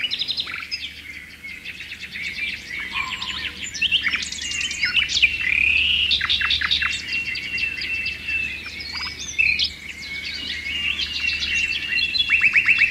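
Birds singing: a busy mix of quick chirps, rapid trills and sweeping whistled notes, with a thin, steady high note held through the second half.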